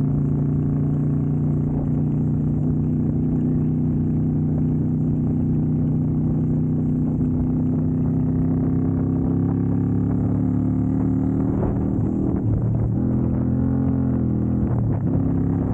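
Keeway V250's 250 cc V-twin engine running under way. Its note holds steady and creeps slightly higher, then changes pitch a few times, down and back up, in the last few seconds as engine speed changes, over a low rumble.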